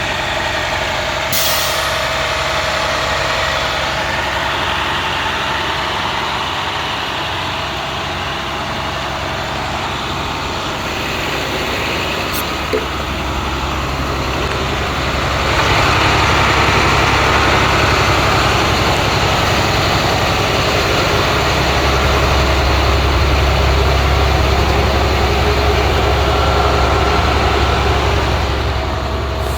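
International school bus's MaxxForce DT 7.6 L inline-six diesel engine running steadily. It grows louder about halfway through, and its low rumble deepens a few seconds later. Two brief clicks are heard in the first half.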